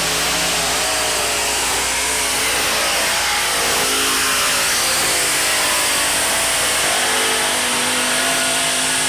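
Modified pulling tractor's engines running flat out under load during a pull: a loud, steady racket with several engine tones that waver slightly in pitch.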